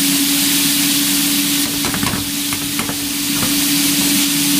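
Green beans and garlic sizzling in a frying pan, a steady hiss, with a few light clinks of metal utensils between about two and three and a half seconds in. A steady low hum runs underneath.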